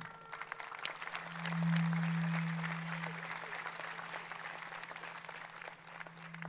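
Audience applauding: a dense patter of many hands clapping. A loud, low, steady hum starts about a second in and slowly fades.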